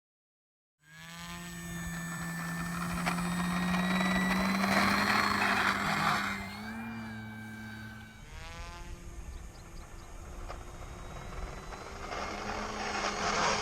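Electric motor and propeller of an E-flite Carbon Z Cessna 150 RC plane in flight, starting about a second in: a steady whine that grows louder, drops in pitch and fades about six seconds in, then builds again near the end as the plane passes.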